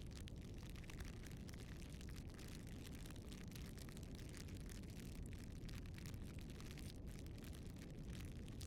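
Campfire burning: a faint low rustle of flames with many small, quick crackles throughout.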